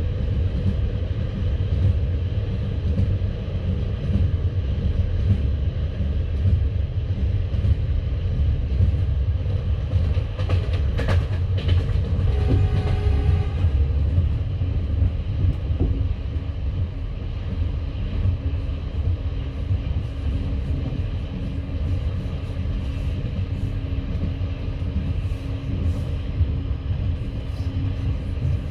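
Passenger train carriage running along the line, heard from inside the car: a steady low rumble of the wheels on the rails with scattered clicks and knocks.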